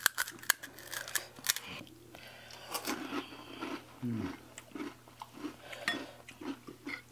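Close-up chewing and crunching of crisp puchka (pani puri) shells, with a quick run of sharp crunching clicks in the first second and a half and softer chewing after. A brief falling vocal sound is heard about four seconds in.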